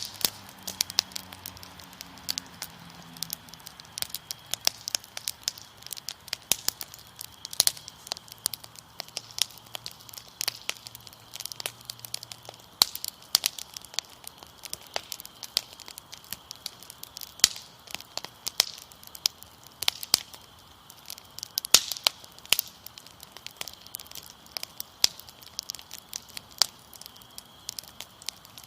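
A fire crackling, with sharp, irregular pops several times a second. Underneath is the steady high trill of crickets.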